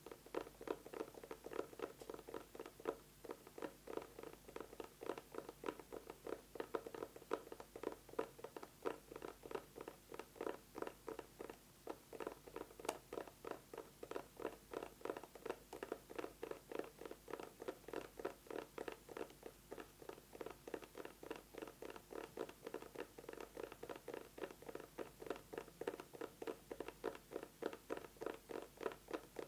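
Fast fingernail tapping on an eyeglasses case: an unbroken stream of quick, light taps that keeps going without pause.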